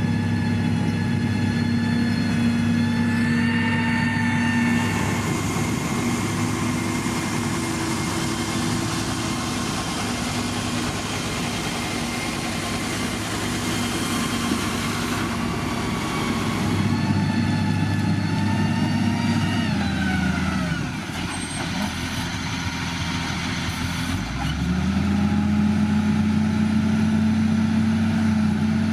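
Heavy road-construction machinery with a diesel engine running steadily. About two-thirds of the way through, the engine slows and drops in pitch, then picks back up to speed a few seconds later.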